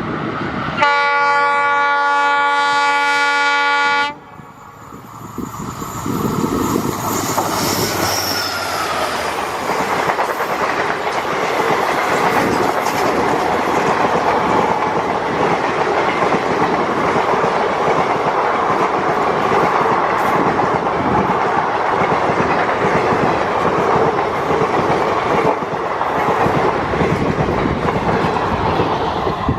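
An EMD diesel locomotive sounds one long horn blast of about three seconds that cuts off suddenly. Then the locomotive and a long passenger train pass close by, with steady rumbling and the clickety-clack of wheels over rail joints.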